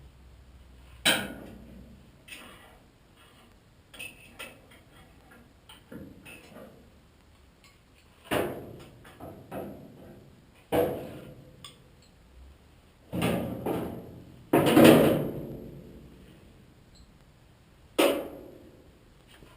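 Irregular metallic clanks and knocks of garage work on a truck's drivetrain, about a dozen separate hits with a little ringing, the loudest about fifteen seconds in.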